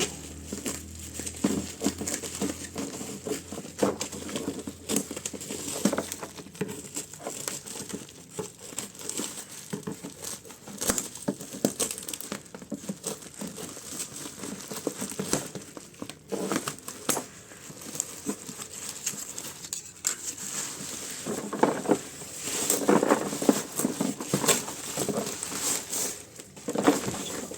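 Packaging being unwrapped: plastic crinkling and rustling with bits of tearing and scattered small clicks, busier and louder for a few seconds near the end.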